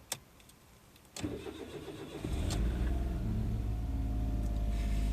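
Suzuki Wagon R's non-turbo engine cranked by the starter for about a second, starting a little over a second in, before it catches and settles into a steady idle. It felt a little slow to start, a weakness the owner puts down to frequent short trips.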